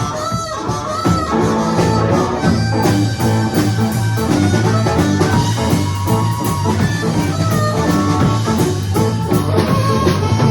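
Live band playing an instrumental blues-rock passage, a harmonica and guitar carrying the melody over a steady bass line.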